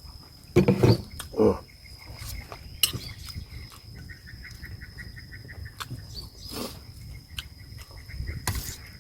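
Close-up eating sounds: loud mouth noises of chewing, about half a second in and again at a second and a half, then quieter. Under them a steady high thin tone and, from about four seconds on, a faint rapid chirping.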